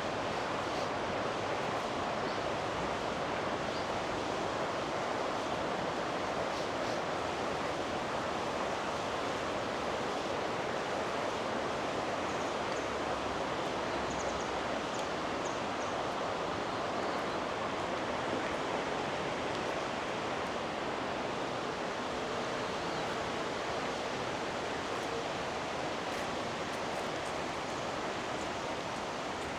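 River water rushing, a steady unbroken wash of noise.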